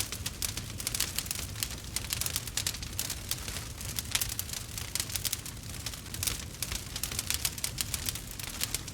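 Burning wood fire crackling: a dense, irregular run of small snaps and pops over a steady low rumble.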